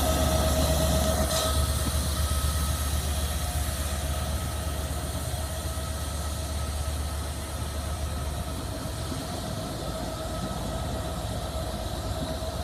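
Passenger coaches rolling along the track as a train pulls away, the rumble fading steadily, with a steady high whine throughout.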